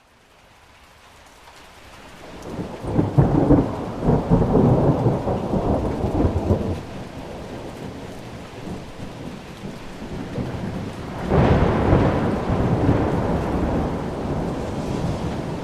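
Thunderstorm: steady rain with thunder. A long roll builds and rumbles over the first several seconds, then a second, sharper peal breaks about eleven seconds in and rolls away slowly.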